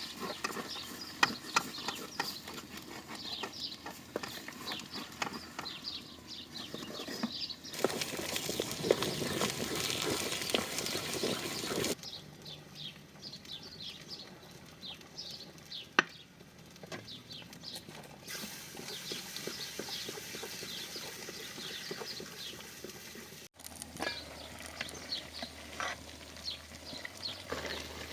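Farm animals calling, with many short high calls over a busy outdoor background, in several separate shots that change abruptly about a third of the way in, near the middle and again later.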